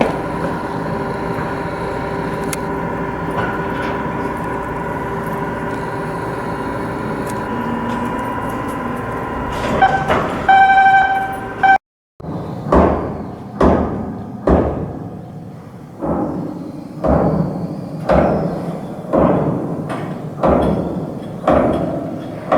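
Steady machinery hum with fixed tones, then a short pitched horn-like signal. After a break, heavy blows land about once a second, each ringing briefly, like hammering on steel.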